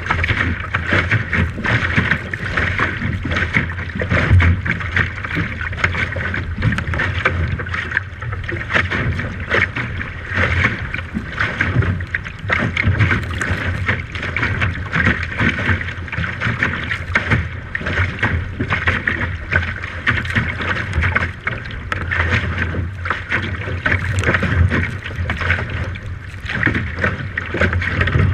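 Steady wind and water noise aboard a small boat, with wind buffeting the microphone in rapid, uneven gusts.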